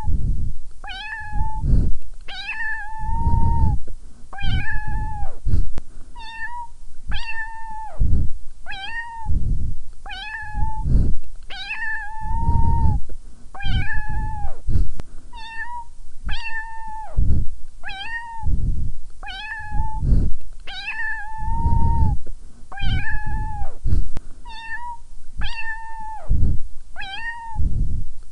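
A domestic cat meowing over and over, roughly one meow every second and a half. Each call is a clear pitched meow that drops in pitch as it ends, a few drawn out longer, with a deep low rumble under each one.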